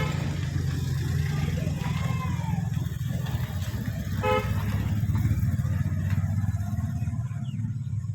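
Electric suburban local train passing, a steady heavy low rumble with a fast flutter, and one short horn toot about four seconds in.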